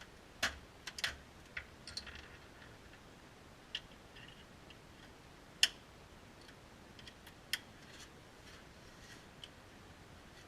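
Scattered metallic clicks and clinks of hand tools, socket, ratchet and breaker bar, being fitted and worked while the front differential's drain, overflow and fill plugs are cracked loose. About a dozen sharp clicks come at uneven intervals, the loudest a little past halfway.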